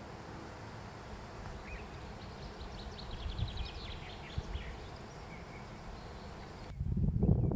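A small songbird sings one quick phrase of rapid high trilled notes over a steady hiss of outdoor background noise. Near the end the sound cuts abruptly to a louder low rushing noise.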